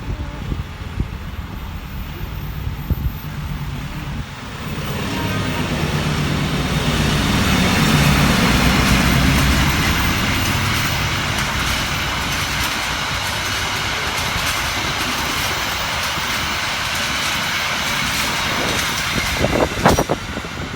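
A train passing at speed: its sound swells about four seconds in, peaks with the locomotive engine going by, then holds as a steady rush of steel wheels on the rails as the cars roll past, with a few sharper knocks near the end.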